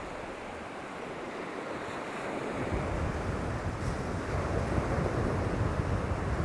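Waves washing on the shore under steady noise, with wind buffeting the microphone as a low rumble that grows stronger about halfway through.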